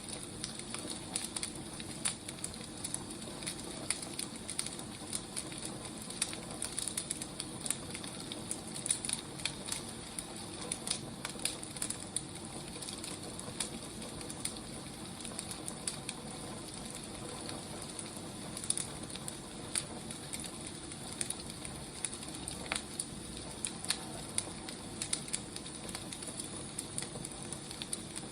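Firewood burning: a steady low hiss with frequent, irregular sharp crackles and pops.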